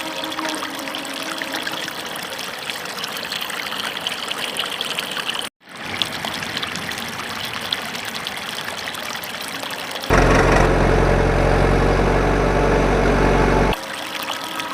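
Water trickling and pouring steadily, broken by a sudden gap about five and a half seconds in. About ten seconds in, a louder, steady low engine-like hum takes over for about three and a half seconds, then the trickling returns.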